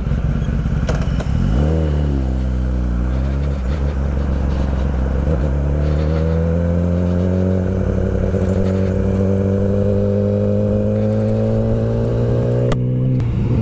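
Kawasaki ZX-10R's inline-four engine under way, over steady wind rush. Its pitch rises and falls once about two seconds in, then climbs slowly and steadily as the bike accelerates in gear, and drops with a click near the end.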